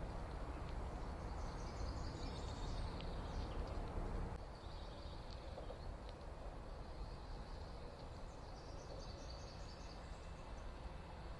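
Faint songbird chirps high up, in two stretches about two seconds in and again from about seven to ten seconds, over a steady low outdoor background rumble that drops a little about four seconds in.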